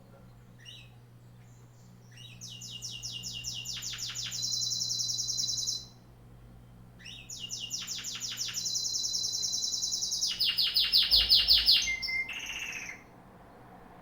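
A songbird singing two long songs, each a fast run of repeated high notes; the second is longer and grows louder toward its end.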